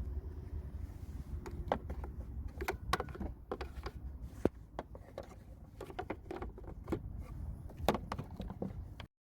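Irregular sharp clicks and light knocks over a low steady rumble; the sound cuts off suddenly near the end.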